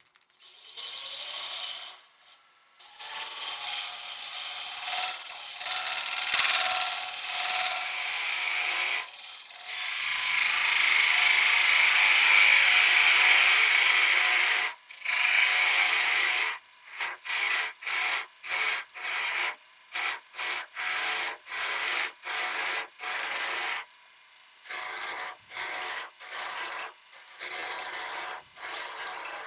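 A hand turning tool cutting wood spinning on a lathe, a continuous hissing cut for most of the first half. In the second half it breaks into short, repeated passes, a little more than one a second.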